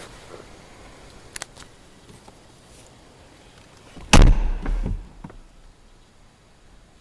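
Car door of an Audi R8 Spyder shutting with one heavy thud about four seconds in, followed by a few smaller knocks; faint clicks come before it.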